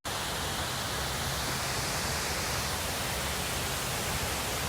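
Steady rushing of water falling at a waterfall, an even hiss-like roar that keeps a constant level.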